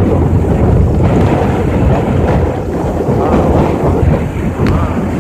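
Strong wind gusting and buffeting the microphone: a loud, continuous low rumbling rush that swells and eases slightly.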